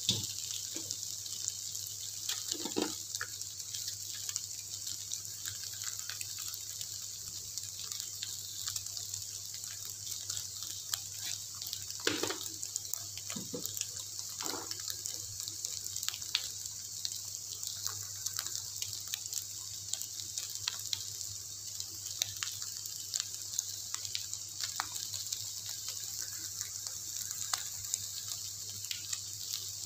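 Egg and pounded spice paste frying in hot oil in a wok, a steady sizzle with a few light crackles and clicks.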